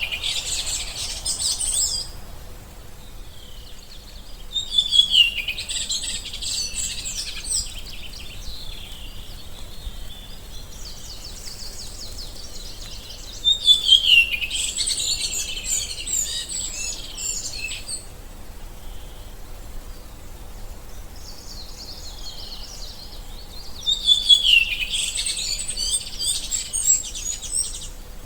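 A songbird singing in repeated phrases, four in all, several seconds apart. Each phrase opens with a falling whistle and runs into rapid, complex twittering.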